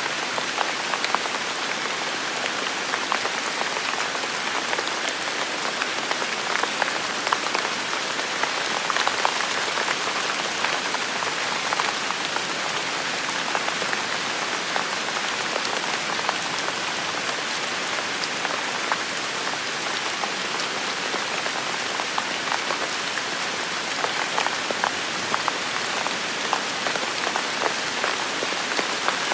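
Heavy rain falling steadily, a dense even hiss with many separate drop hits ticking through it.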